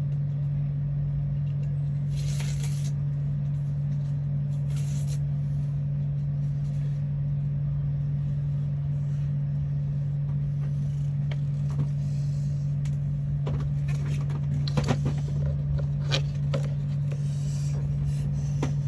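A steady low hum, with scattered light scrapes, rustles and clicks of small paper model parts being handled. The handling sounds are busiest in the last few seconds.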